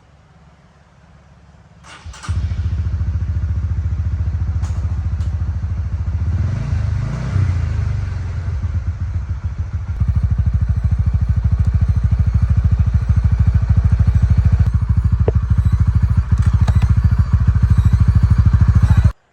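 Small motorbike engine starting about two seconds in and running with rapid, even firing; its pitch shifts up and down for a few seconds, then it runs louder and steady from about halfway until it cuts off suddenly near the end. The bike had failed to kick-start, and this is it running after the repair.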